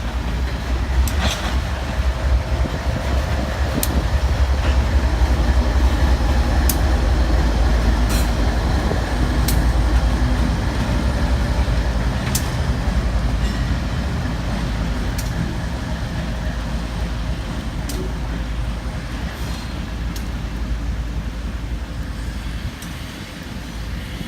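Freight train cars of a granite train rolling past: a steady low rumble with sharp clicks every second or two as the wheels cross rail joints. Strong wind buffets the microphone.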